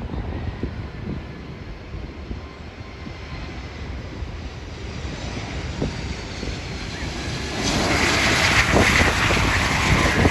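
Jet airliner's engines drawing closer, a faint whine building and then jumping to a loud, full rush with a strong whine about three quarters of the way in as the plane passes near.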